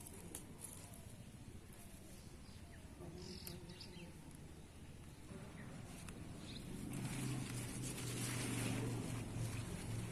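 Garden ambience: faint bird calls and a few small clicks over a low hiss. About seven seconds in, a steady low hum with louder hiss comes up.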